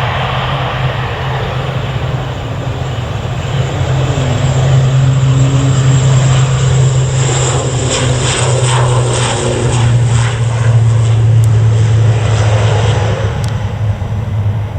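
Jet airliner passing close by on the runway, its engine noise building about four seconds in, loudest through the middle with sliding tones, then easing near the end.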